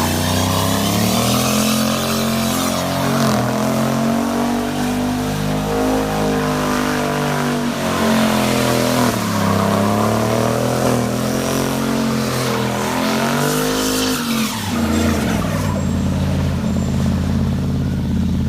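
Toyota 1UZ-FE V8 in a 1950 GMC pickup, through a custom stainless exhaust, revving up and down several times, then settling to a steadier, lower note for the last few seconds.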